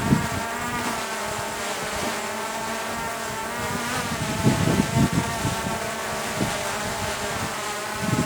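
DJI quadcopter drone hovering, its propellers giving a steady, slightly wavering buzzing hum, while gusts of wind buffet the microphone about four and a half seconds in and again near the end.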